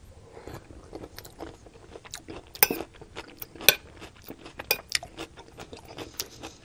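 Close-miked chewing and crunching of a mouthful of stir-fried vegetables, with many small crackles and wet mouth clicks. A metal spoon clinks and scrapes against the ceramic plate as more food is scooped up.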